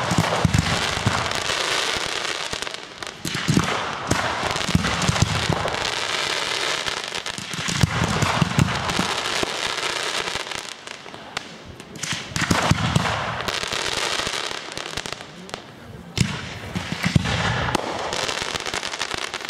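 Aerial fireworks going off overhead: a dense run of bangs and crackling star bursts that thins briefly every few seconds before building again.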